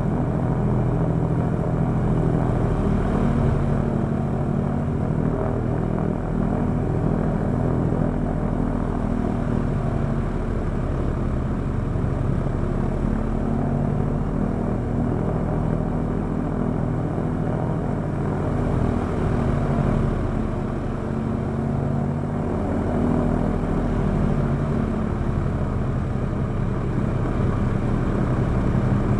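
A Douglas A-26B Invader's right-hand Pratt & Whitney R-2800 radial engine running steadily on a ground run, propeller turning, with all cylinders firing. Its loudness dips slightly about two-thirds of the way through, then picks back up.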